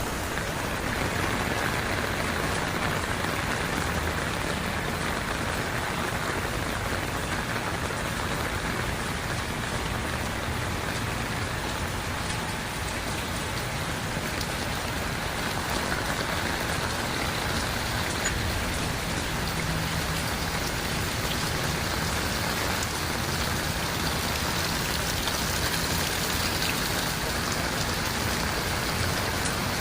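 Heavy rain falling steadily, pattering on surfaces close by.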